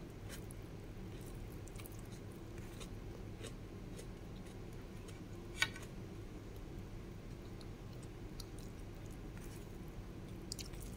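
Someone eating rice and chicken soup: soft, scattered chewing clicks and smacks, with one sharper click about five and a half seconds in, over a steady low hum.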